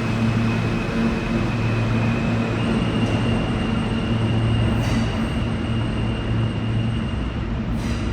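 An R160 subway train running steadily, with a strong low hum and a thin high electrical whine that steps up slightly in pitch about two and a half seconds in.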